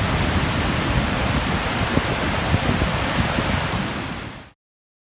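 Steady roar of Niagara Falls, with wind gusting on the microphone, which cuts off suddenly about four and a half seconds in.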